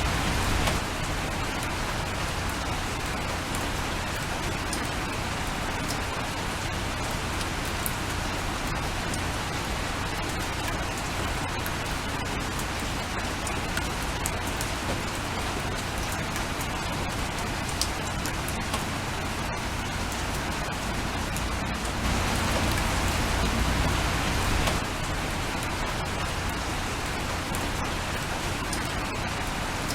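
Steady rain with scattered taps of single drops. It grows louder for about three seconds roughly three quarters of the way through.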